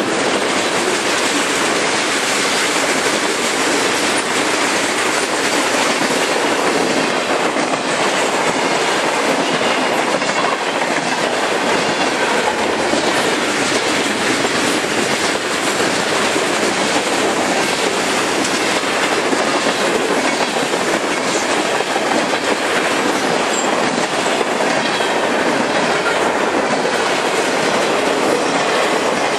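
Freight train cars (tank cars, covered hoppers and boxcars) rolling past at close range: steady, loud wheel-on-rail noise with a continuous clatter of wheels clicking over rail joints.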